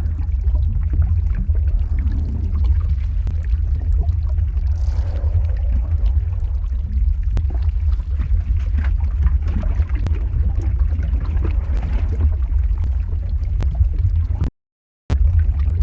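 Lava-flow ambience sound effect: a steady deep rumble with scattered crackles and pops over it. It cuts out to silence for about half a second near the end, then resumes.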